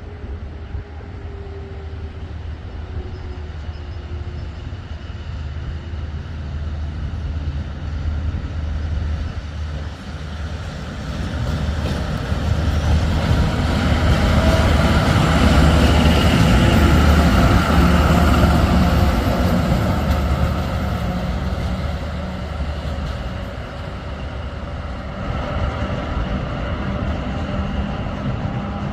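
Train passing: a steady low rumble that swells to its loudest about halfway through, then eases off.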